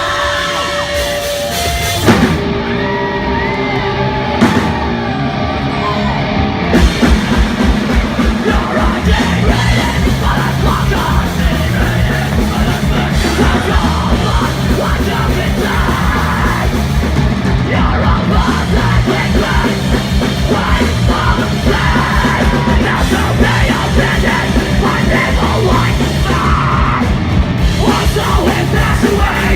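Live punk rock band starting a song, loud and heavily amplified, with vocals. A lighter opening gives way about six seconds in to the full band with driving drums.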